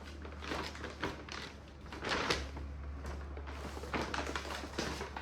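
Plastic grocery packaging rustling and items being handled and set down, in a series of short rustles and scrapes, the loudest about two seconds in, over a steady low hum.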